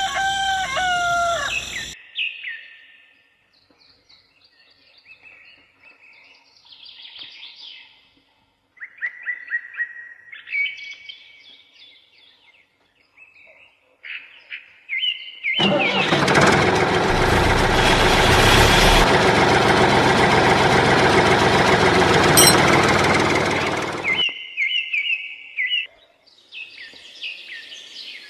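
A rooster crows at the start, then small birds chirp on and off. About halfway through, a loud, steady rushing noise comes in suddenly, runs for about eight seconds and cuts off, after which the birds chirp again.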